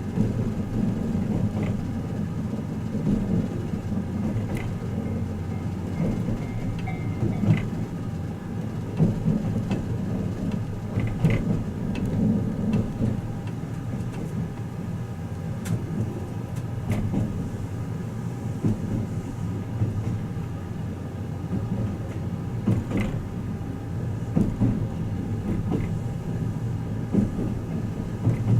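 Twilight Express Mizukaze train running, heard inside a passenger compartment: a steady low rumble with scattered clicks and knocks from the wheels and car body.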